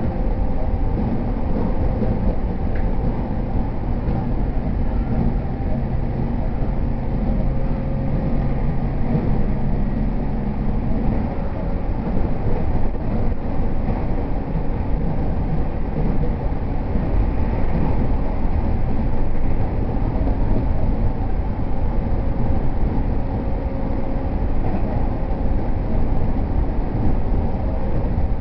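Running noise of a JR E231 series 0 electric commuter train heard from inside the car while it runs between stations: a steady rumble of wheels on rail, with a low, steady hum that fades about eleven seconds in.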